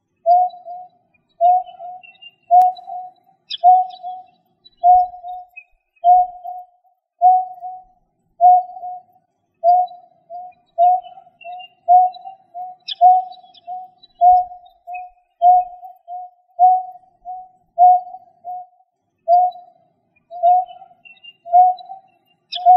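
A bird's low, hollow hooting call, a short note repeated about once a second and sometimes doubled, with faint high chirps behind it: a looped lure recording of a rail or painted-snipe call.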